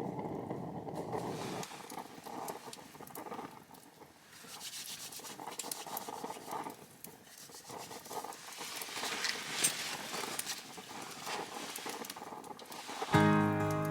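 Wood campfire crackling, with many small irregular pops and clicks. A low rumble cuts off in the first couple of seconds, and music comes in near the end.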